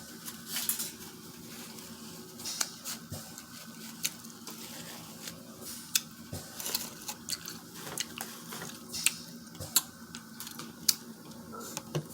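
Close-miked mukbang eating of a seafood boil in butter sauce: irregular wet smacks and sharp clicks of chewing and of fingers working sauce-covered crab legs and shrimp, with a few louder snaps.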